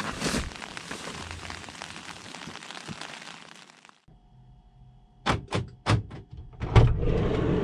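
Wind noise fading out, then a few sharp clicks and knocks and a heavy thunk near the end, like a door shutting, followed by a steady low rumble.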